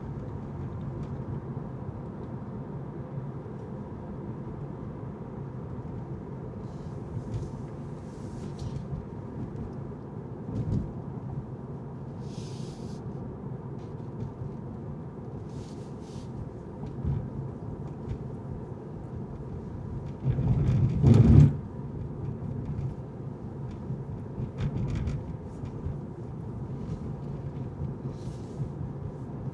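A car driving, with a steady low road and engine rumble and brief hisses now and then. About two-thirds of the way in comes a louder low rumble lasting about a second.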